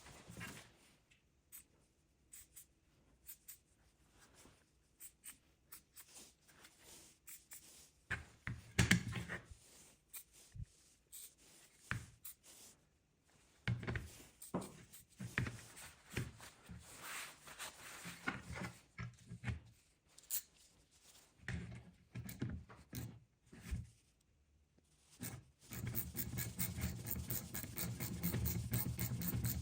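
Hand work at a bench: scattered scrapes, knocks and handling clicks, with louder bouts of rubbing. About 26 s in, a fast, steady scraping begins and keeps going.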